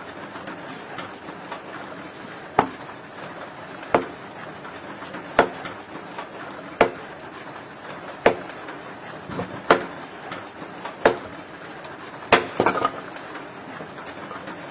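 Axe chopping wood: sharp, regular strikes into wood, about one every second and a half, with a quick double strike near the end.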